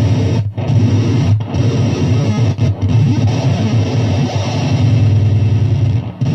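Harsh electronic noise music: a dense, distorted wall of sound over a heavy low hum, cutting out briefly several times.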